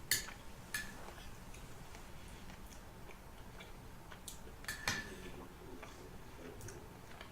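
A metal spoon clinking against a soup bowl while eating: a sharp clink at the start, another just under a second in, and a small cluster of clinks around five seconds in, with faint eating sounds between.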